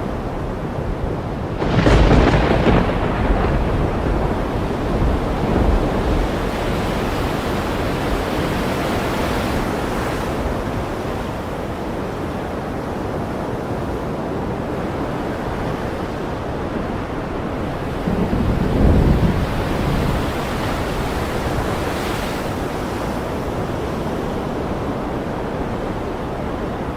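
Thunderstorm and ocean-surf ambience: a steady wash of waves and wind, with a sudden loud crash about two seconds in that fades over a couple of seconds, and a lower rumbling swell about two-thirds of the way through.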